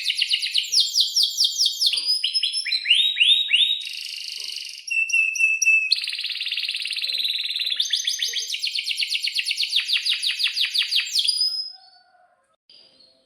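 Domestic canary singing a long, unbroken song of fast repeated chirps and rolling trills, switching phrases every second or two, then stopping shortly before the end.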